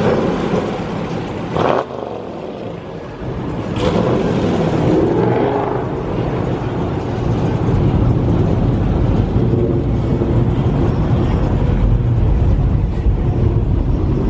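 Several Dodge Chargers and Challengers with aftermarket exhausts driving out of a parking lot one after another, their engines rumbling. The rumble grows louder about three seconds in and stays loud.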